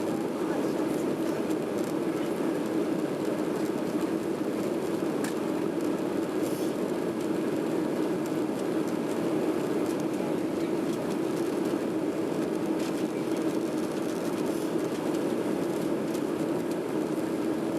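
Boeing 737-800 jet noise from its CFM56-7B turbofans: a steady, even rushing drone that holds at one level without rising or falling.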